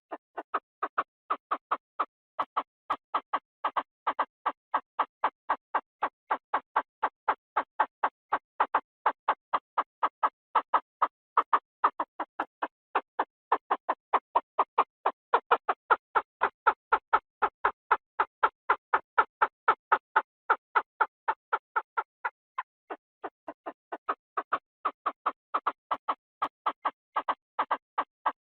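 Looped recording of Chinese francolin calls, used as a trapping lure: one short call note repeated very evenly about three times a second, with a brief break about 22 seconds in.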